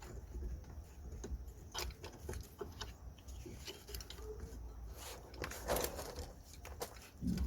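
Scattered light clicks and knocks of drum-brake shoe hardware (springs, clips, metal parts) being handled and fitted by hand, with a louder clatter a little over halfway through and a dull thump near the end.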